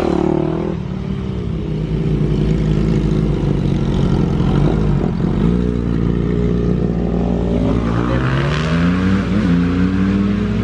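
Carbureted dirt bike engine running at a steady speed, then revving up with a rising pitch about eight seconds in.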